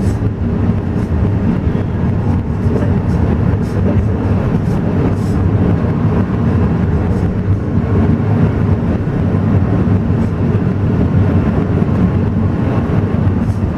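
Alishan Forest Railway train running, a steady low rumble without break.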